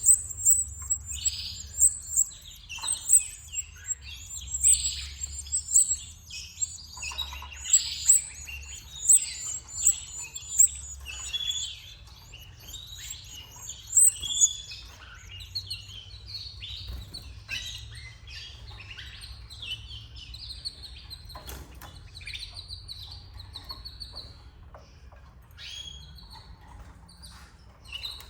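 Canaries chirping and calling in quick, overlapping bursts of high peeps. The bursts are densest in the first half and thin to scattered calls later, over a steady low hum.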